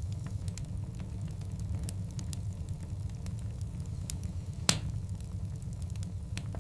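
Wood fire of large burning logs crackling, with scattered small pops over a steady low rumble of the flames and one loud sharp pop about two-thirds of the way through.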